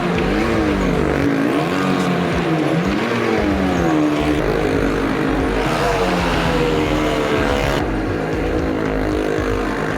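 Engines of stunt vehicles riding the wall of a well of death, the engine note rising and falling again and again.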